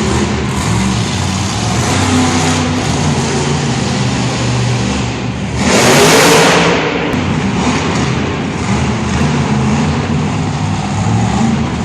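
Monster truck engine running and revving, rising and falling in pitch. A loud rushing burst, the loudest moment, comes about six seconds in and lasts about a second.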